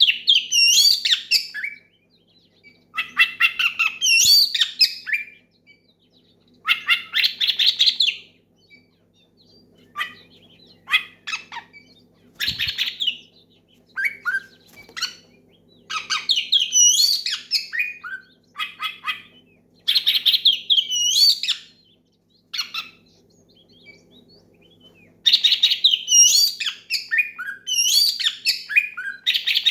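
Oriental magpie-robin (kacer) singing loudly in repeated phrases of rapid whistles and chattering notes, each a second or two long with short pauses between. It is a rival-calling song.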